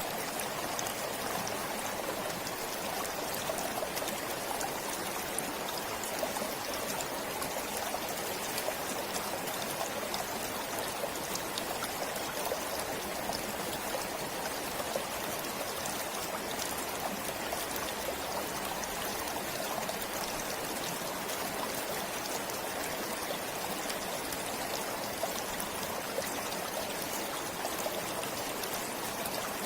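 Water of a forest stream flowing steadily: a continuous, even rush with fine trickling.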